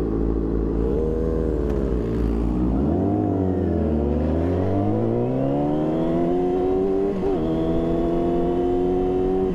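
Inline-four sport bike engine running at speed: its pitch drops as it slows, then climbs steadily as it accelerates, with a brief wobble about seven seconds in.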